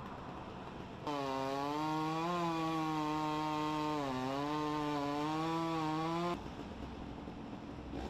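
Chainsaw engine running at high speed, its pitch wavering and dipping twice, cutting in abruptly about a second in and stopping abruptly a little after six seconds.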